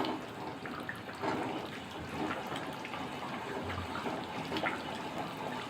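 A spatula stirring simmering chicken curry in a pot: wet sloshing and bubbling with small scrapes and clicks.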